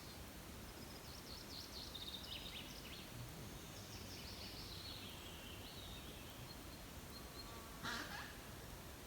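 Wild birds calling in the morning: a run of high chirps, then a falling trilled song phrase, and near the end one short, louder, lower-pitched call.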